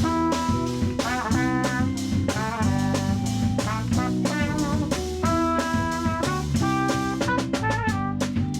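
Live band playing the instrumental intro of a jazz-funk song: a trumpet-led brass melody over a drum kit.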